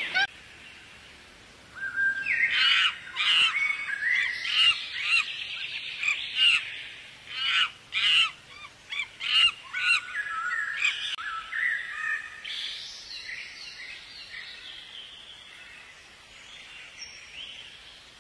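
Birds chirping: a quick run of short, sharp chirps starting about two seconds in, followed by fainter, softer calls that die away near the end.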